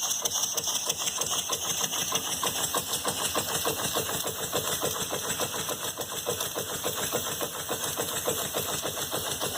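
Handmade model steam engine running on live steam from a pressure cooker, beating out a fast, even rhythm of exhaust strokes over a steady hiss.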